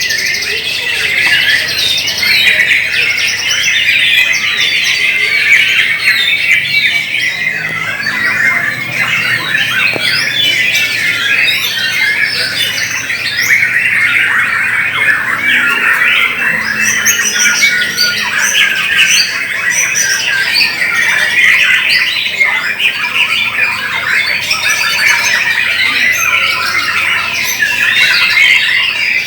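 Many white-rumped shamas singing at once, a dense, unbroken tangle of overlapping song.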